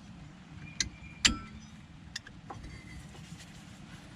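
A few sharp metallic clinks and knocks from metal tools and brake parts being handled, the loudest about a second and a quarter in, over a low steady hum.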